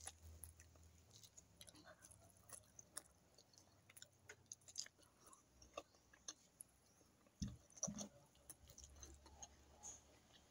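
Faint chewing of a mouthful of fish and rice, with scattered small mouth clicks and a couple of soft knocks past the middle.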